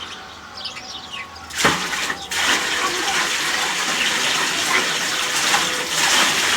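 Water pouring and splashing into a pool as it is filled, starting suddenly about a second and a half in and running on steadily.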